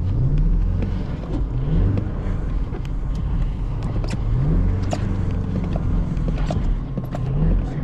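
BMW X5 50i's twin-turbo V8 revving up and dropping back again and again, its pitch rising and falling four or five times.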